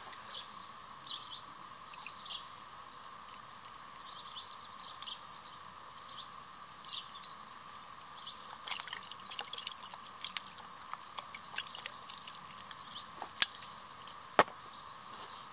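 Garden ambience: small birds giving short high chirps again and again over a steady faint hum, with scattered sharp clicks, the loudest two near the end.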